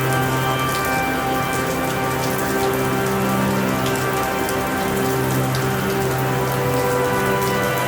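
Steady rainfall, an even patter of drops. Under it run soft sustained low tones that change pitch every couple of seconds.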